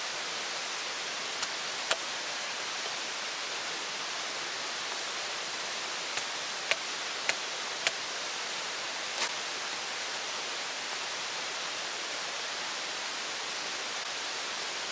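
Steady hiss of rushing water, with a handful of short sharp clicks scattered through it.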